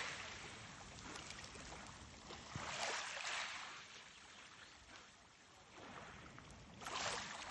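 Sea water washing and splashing in slow surges, one swelling and fading roughly every four seconds over a steady hiss.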